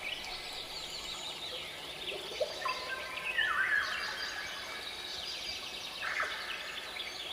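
Birds chirping and singing, several short overlapping calls and trills that are busiest about three seconds in and again around six seconds, over a steady faint background hiss.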